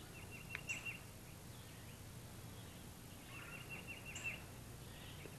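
Faint woodland birdsong: two short rapid trills of chirps, about half a second in and again past the three-second mark, with one sharp click early on, over a low steady hum.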